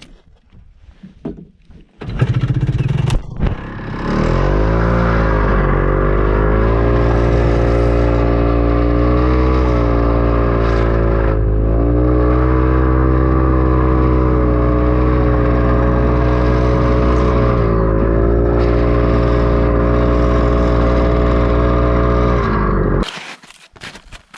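Snowmobile engine catching about two seconds in with an uneven start, then running loud and steady, its pitch dipping and recovering three times, before cutting off abruptly near the end.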